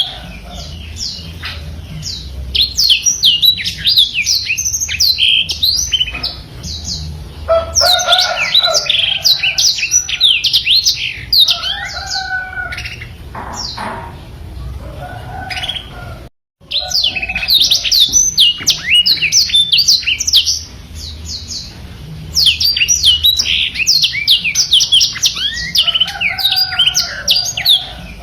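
Black-throated canary (blackthroat) singing long, fast twittering phrases of rapid high notes that sweep downward, in runs of several seconds broken by short pauses. A low steady hum lies underneath, and the sound cuts out for a moment about 16 seconds in.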